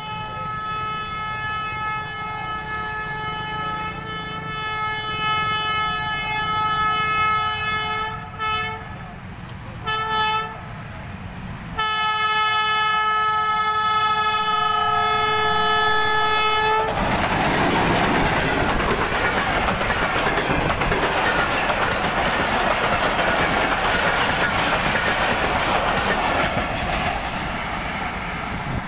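Pakistan Railways diesel locomotive sounding its multi-note horn as it approaches: a long blast, two short blasts, then another long blast of about five seconds. The horn cuts off about 17 seconds in as the train speeds past at full line speed, giving a loud, even rush and rattle of wheels on rails that fades near the end.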